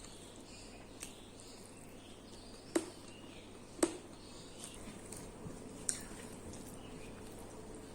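A person eating close to the microphone: soft chewing and mouth noises, broken by three sharp clicks about three, four and six seconds in.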